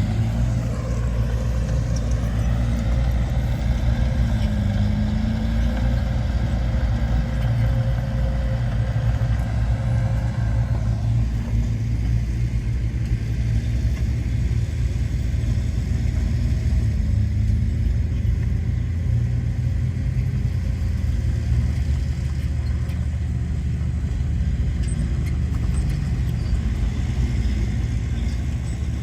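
Diesel engine of heavy earthmoving machinery running steadily under load, a deep continuous rumble. A higher steady whine rides over it for the first third and drops away about eleven seconds in.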